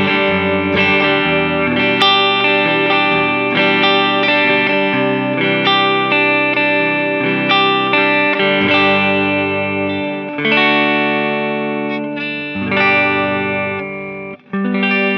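Electric guitar music: picked notes and chords ringing over lower sustained notes, cut by a brief break near the end.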